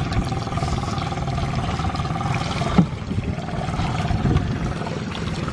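Sea water sloshing and splashing against the side of a boat, with a steady hum running under it and a single knock about three seconds in.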